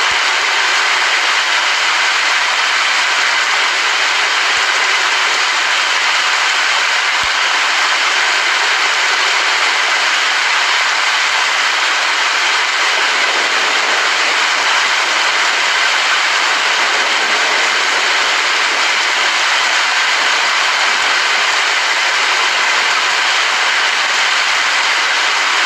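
Steady heavy rain, an even rushing hiss with no let-up.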